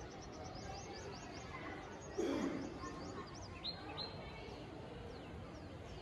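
Small birds chirping, a quick run of short, high, falling chirps at about five a second, then a couple of short whistled notes, over steady background hum. A brief louder low sound comes about two seconds in.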